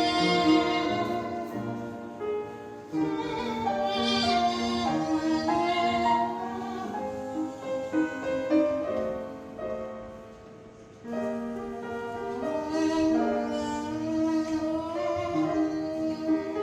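An ensemble playing classical-style music, bowed strings with a violin carrying the melody over held notes. The music thins to a quiet passage about ten seconds in, then comes back at full level.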